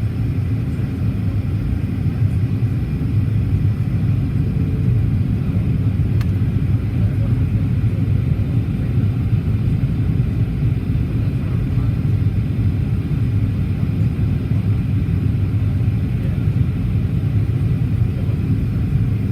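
Steady low rumble of a Boeing 737-800's CFM56 engines and airflow, heard inside the passenger cabin.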